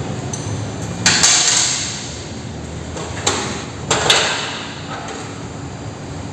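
Metal hand tools being set down on a hard surface: sharp clanks about a second in, at about three seconds and again just after four, each with a short ring.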